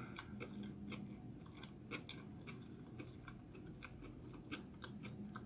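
Faint close-up chewing of a vegan sushi roll, with small wet mouth clicks a few times a second.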